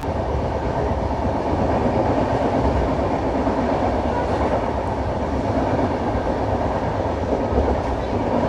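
Nagercoil Express passenger train running along the line: a steady noise of wheels on rails that holds even throughout.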